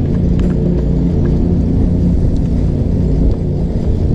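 A small engine running steadily, a low droning hum with rumble under it.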